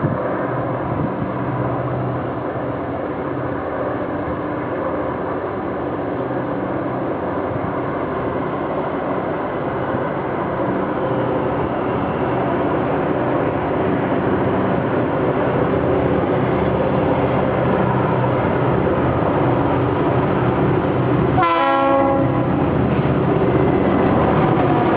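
Two EMD GP38-2 diesel-electric locomotives running as they approach, their 16-cylinder two-stroke engines droning and slowly growing louder. A short horn blast sounds near the end.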